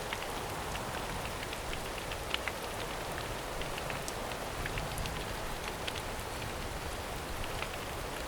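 Steady rain falling in a forest, an even patter with many single drops ticking sharply on leaves and surfaces.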